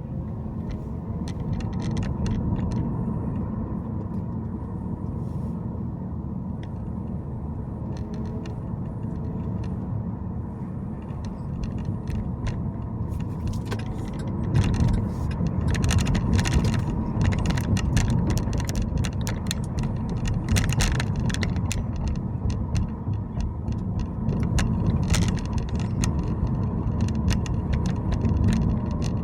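A car on the move, with a steady low rumble of road and engine noise. Over it come frequent light clicks and rattles, thicker in the second half.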